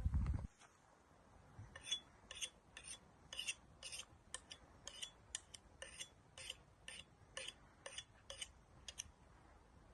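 Short rasping strokes repeated about twice a second for some seven seconds, in a kitchen-prep rhythm. Before them, a low buzz cuts off about half a second in.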